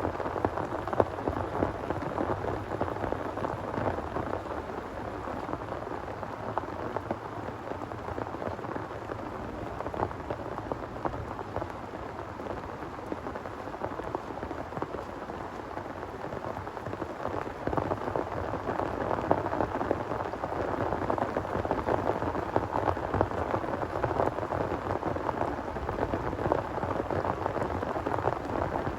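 Heavy rain falling, a dense steady patter of many drops hitting a surface, growing a little louder in the second half.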